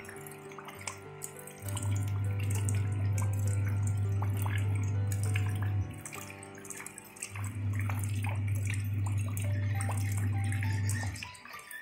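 Rain falling on shallow water over pebbles, a dense patter of many small drop splashes. Under it runs background music of long held low notes, which drop out briefly about six seconds in and again near the end.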